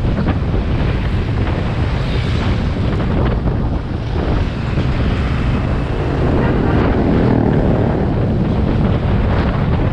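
Wind buffeting the microphone of a camera on a moving motorcycle, a steady rushing mixed with the rumble of the ride.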